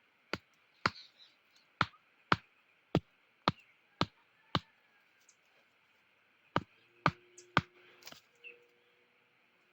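Sharp knocks, about two a second: eight, a short pause, then a few more. They are a sharpened wooden stake being hammered into the ground as an anchor for a bird trap.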